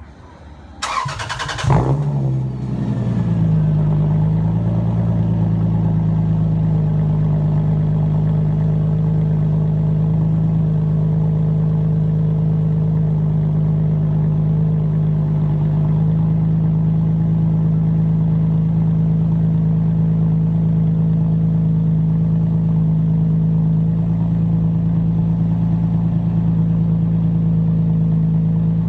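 Lexus GS300's 2JZ-GE inline-six, straight-piped with the muffler and resonator deleted, cranking briefly about a second in and catching with a rev flare. The revs settle within a couple of seconds into a steady cold-start idle.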